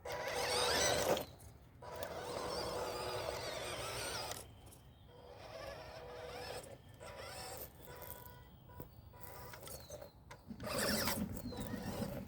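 Small electric motor and gearbox of an MN168 RC crawler whirring in bursts as it drives over the trail, with a steady whine and some changes in pitch. It is loudest in two stretches in the first few seconds, quieter through the middle, and loud again near the end.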